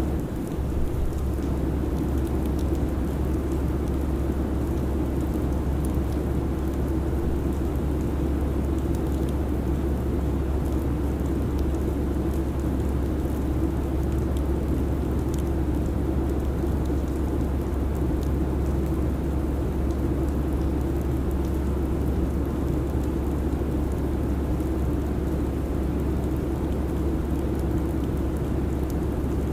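Steady airliner cabin noise: a constant low rumble and hiss of jet engines and airflow in cruise, unchanging throughout.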